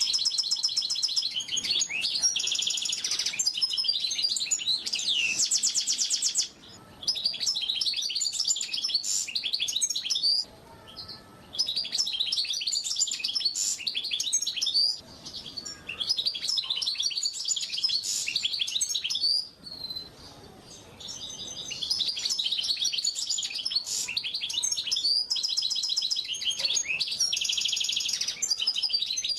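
White-eye (pleci) singing: long runs of rapid, high twittering chirps and fast trills, broken by a few short pauses.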